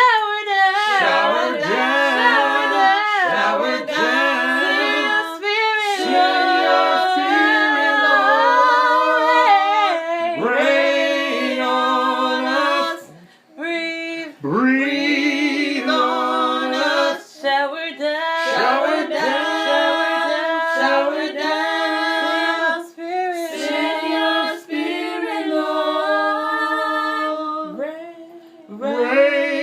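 Unaccompanied voices singing a gospel worship song, holding long notes with wavering, sliding runs, and a short break about halfway through.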